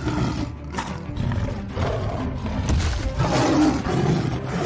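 Cartoon animal roars, a growling sound effect, over background music.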